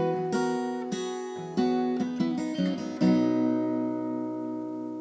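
A 1967 Martin D-18 steel-string dreadnought acoustic guitar: a few strummed chords and picked notes, then a final chord about three seconds in that rings out and slowly fades, closing the song.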